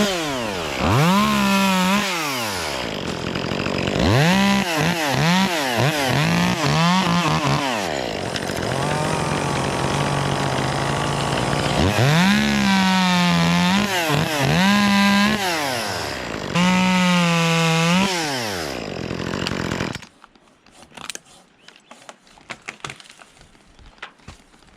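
Two-stroke top-handle chainsaw, an Echo CS-2511T, revving up to full speed and dropping back in repeated bursts, running at a lower steady speed for a few seconds midway. It stops about twenty seconds in, leaving only faint clicks and knocks.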